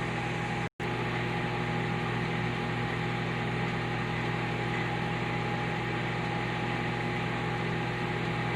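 Microwave oven running with eggs cooking inside: a steady hum and fan noise with a low drone and a faint steady tone. The sound cuts out completely for a moment just under a second in, then carries on unchanged.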